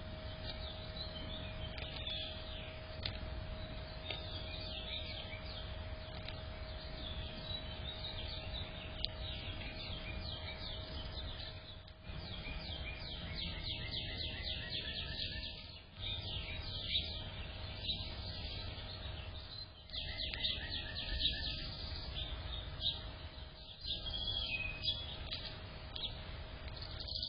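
Small songbirds chirping rapidly and repeatedly, with a falling trill about halfway through and another a little later.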